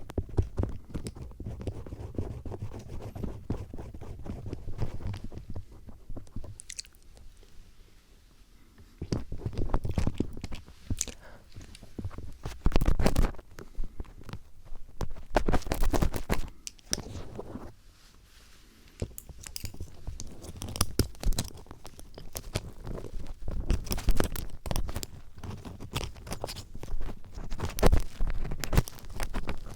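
Close-up crunchy scraping and clicking of a screwdriver-style ear-cleaning tool picking inside a microphone's ear, in irregular bursts with two brief lulls.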